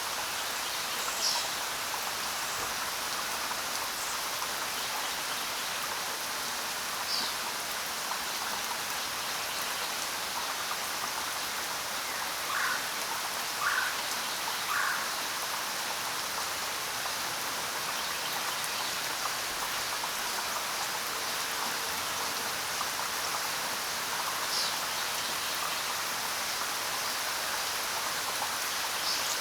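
Steady rain falling, with a few short high bird chirps now and then and three brief lower calls about a second apart near the middle.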